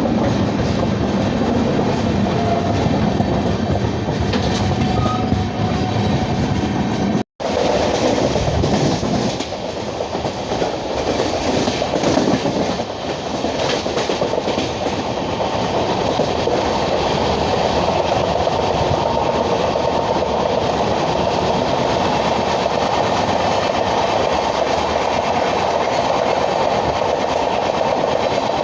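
Steady running noise of an Indian Railways train with LHB coaches at speed: wheels on rail, with scattered clicks between about nine and fifteen seconds in. The sound cuts out completely for an instant about seven seconds in.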